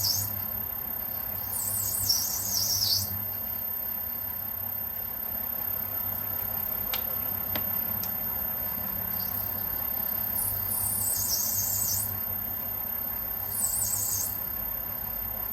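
Lathe running steadily while an HSS tool turns cast aluminium, with a high, wavering squeal from the tool at the cut, coming and going in three bursts of a second or so.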